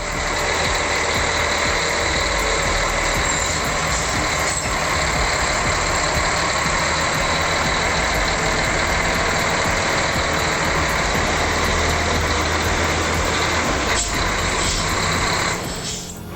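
Heavy tractor diesel engine running loud and steady at high load.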